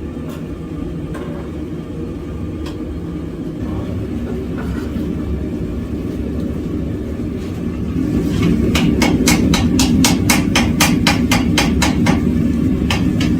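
A forge roaring steadily, then from about two-thirds of the way in a fast run of hammer blows, about five a second, on hot steel at the anvil, forge-welding the seam, with a brief pause and two more blows near the end.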